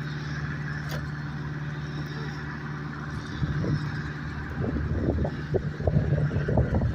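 An engine running steadily with a low, even hum. From about three seconds in, wind buffets the microphone in irregular gusts that grow louder.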